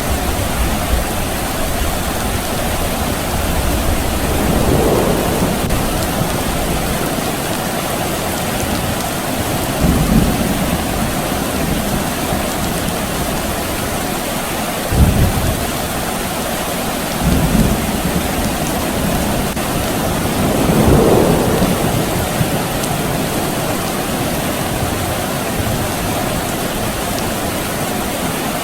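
Steady rain falling on surfaces, with several low rumbles of distant thunder swelling up every few seconds.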